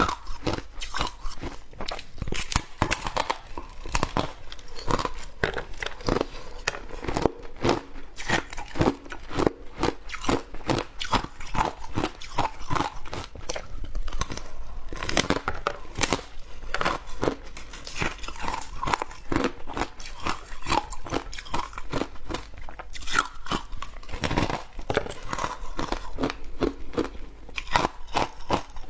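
Close-miked biting and chewing of crunchy shaved ice: a continuous run of irregular crisp crunches and crackles as the ice is bitten and ground between the teeth.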